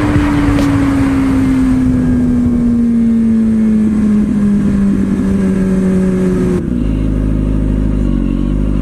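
Kawasaki Ninja ZX-6R's inline-four engine slowing down, its pitch falling steadily under a rush of wind noise. About six and a half seconds in, the wind noise cuts off and the engine settles to a steady, lower idle.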